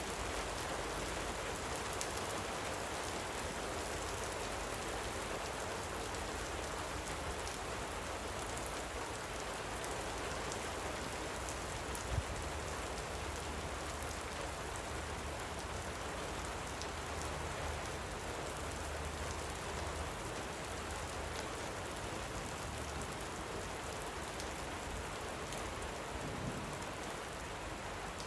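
Light rain falling steadily: an even hiss of rain with scattered raindrop ticks, and one sharp tap about twelve seconds in.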